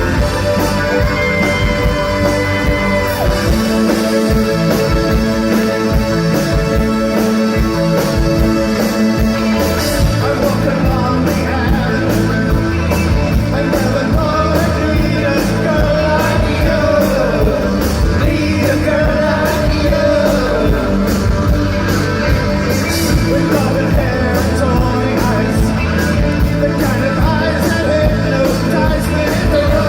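A live new wave rock band playing, loud and steady. Lead vocals come in about ten seconds in.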